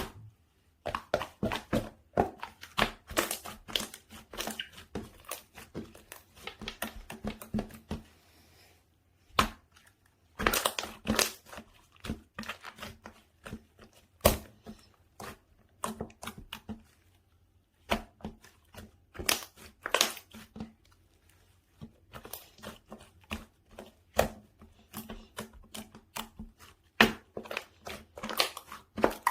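Slime being played with by hand: pressed, folded and stretched, giving irregular runs of sticky clicks and crackling pops, with a few short pauses.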